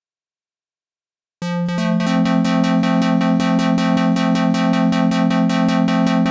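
About a second and a half of silence, then a Serum software synthesizer patch plays: a square-wave note pulsing in fast, even steps, about six a second, from a stepped LFO on its low-pass filter, with a ping-pong delay. Its pitch steps up once shortly after it starts.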